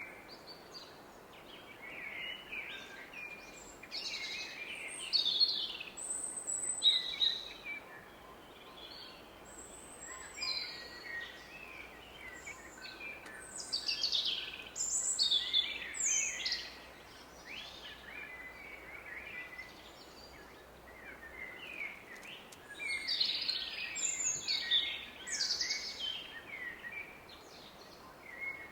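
Woodland songbirds singing in bouts of quick chirps and whistled phrases, over the steady rush of a distant river.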